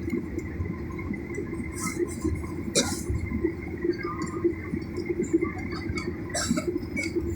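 Steady airliner cabin noise: a low, even rumble of engines and airflow with a faint steady whine, and a sharp click about three seconds in.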